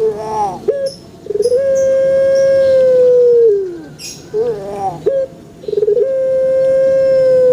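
Male Barbary dove (ringneck dove) cooing: twice a rolled start runs into a long, steady coo that falls away at its end, with short rising-and-falling notes in between. Faint high chirps sound now and then.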